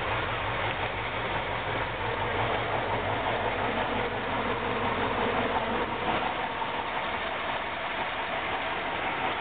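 KrAZ-255B truck's diesel engine running steadily, with a deep low pulse that fades out about halfway through.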